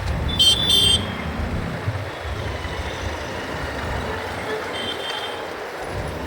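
Low rumble of road traffic heard while riding, with a short high-pitched vehicle horn sounding twice in quick succession about half a second in, and a fainter horn near five seconds.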